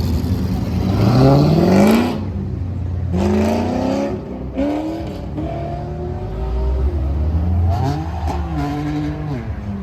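Car engine revving repeatedly over a steady low engine rumble. The loudest rev climbs in pitch and cuts off about two seconds in, with shorter rev-ups around three to four seconds and again near eight seconds.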